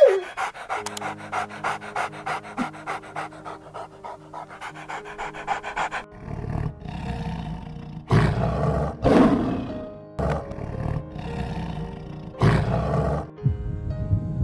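Animal sounds over background music: a fast, even run of short breathy strokes for about six seconds, then several loud, rough calls, each about a second long.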